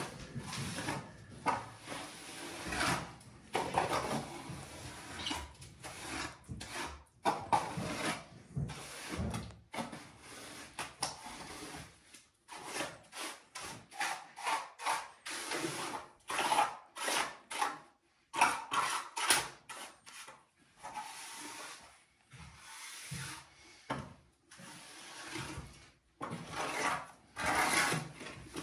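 Short scraping and rubbing strokes of a hand tool, repeated at an irregular pace with brief pauses between them.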